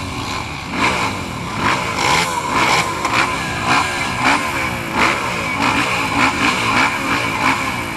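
Motocross motorcycle engines racing, revving up and dropping again and again as the riders accelerate and shift.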